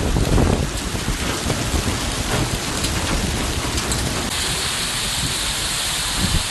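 Heavy thunderstorm rain pouring down with a low rumble of thunder underneath. The hiss of the rain shifts to a smoother sound about four seconds in.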